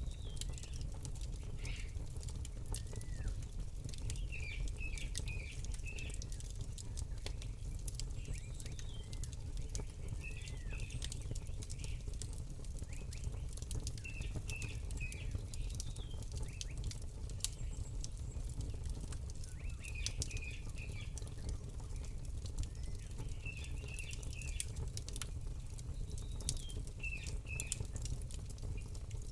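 Campfire crackling steadily with many sharp pops over a low rumble, while a small bird chirps short phrases of a few notes every few seconds.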